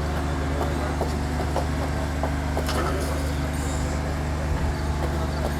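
A steady low mechanical hum, like an engine running, with a few faint clicks and knocks over it.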